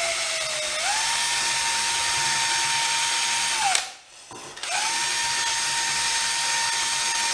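Handheld DeWalt power drill running at steady speed, most likely spinning a brush to scuff and clean the glass pot before gluing. It spins up, runs for about three seconds, spins down about halfway through, then starts again a second later and runs steadily.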